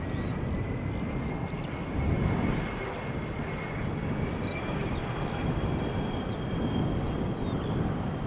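Jet airliner engines: a steady rumble with a thin, high whine that drifts slowly in pitch.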